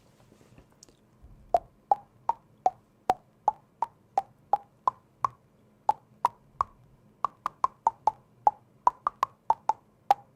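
Mouth-made tongue clicks: a string of short pitched pops, about two to three a second, starting about a second and a half in.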